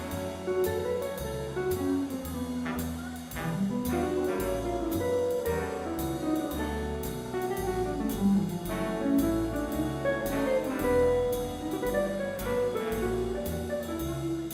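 Live swing jazz band playing an instrumental break: a horn solo line over a walking upright bass and drums keeping a steady cymbal beat.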